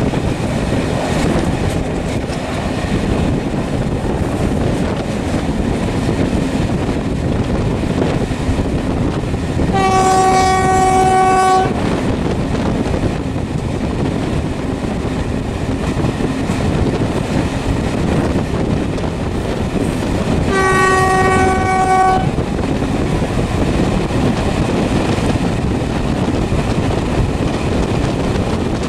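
Train running with a steady rumble, its single-note horn sounding twice, each blast about two seconds long, the second coming about ten seconds after the first.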